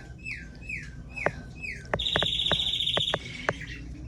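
Young cockatiel calling: a run of short falling chirps, then, about two seconds in, a rapid buzzy trill lasting about a second, with a few sharp clicks.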